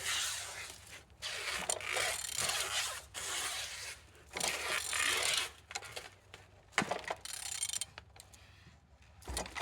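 Repeated scraping and rubbing strokes as a removed Peugeot-Citroën 1.6 HDi DV6C diesel engine is turned over by hand, stroke after stroke with short pauses. It turns freely, which is the sign that the engine is not seized.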